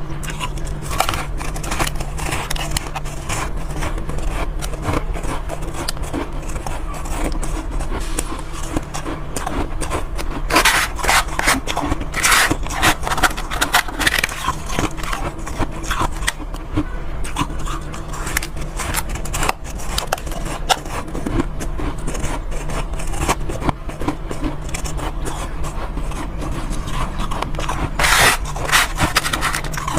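Soft ice being eaten from a bowl: irregular crunching and scraping, with louder bursts of crunching around the middle and near the end, over a steady low hum.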